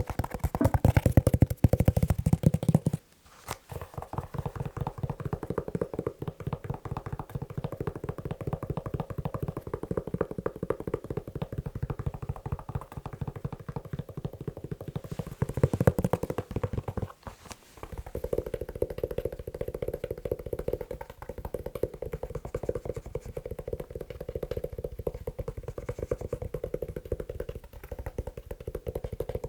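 Fast tapping on a leather shoe: a dense, rapid run of taps that breaks off briefly about three seconds in and again about seventeen seconds in, louder in the first few seconds and around sixteen seconds in.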